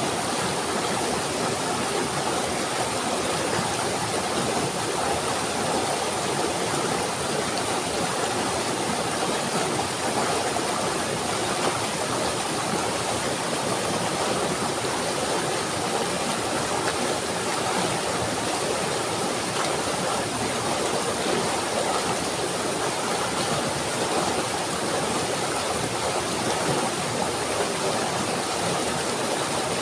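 Running water rushing steadily and without a break, like a stream.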